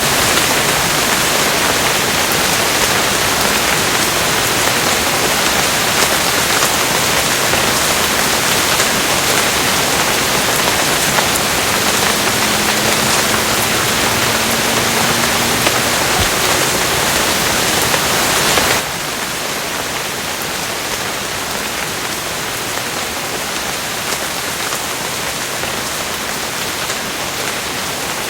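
Steady heavy rainfall, a dense even hiss of drops. About two-thirds of the way through it drops suddenly to a softer, duller rain.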